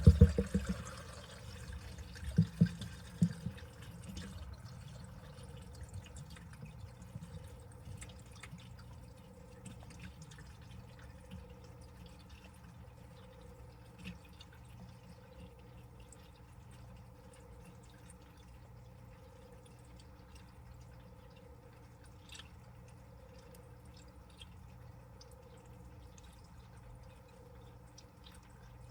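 Water dripping and splashing inside a washing machine drum, over a steady low hum. There are a few louder splashes in the first three seconds, then only faint scattered drips.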